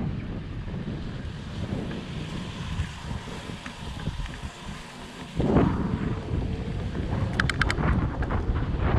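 Wind buffeting the microphone on a moving fat bike, a steady low rumble. It eases off about four seconds in, comes back louder at about five and a half seconds, and a quick run of clicks follows near the end.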